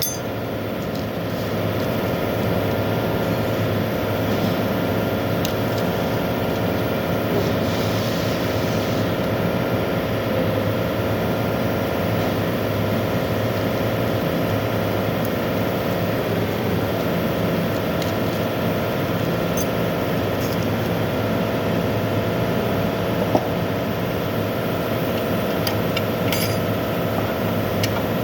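Steady mechanical drone of a car engine running, with a few light metallic clinks and one short knock about 23 seconds in.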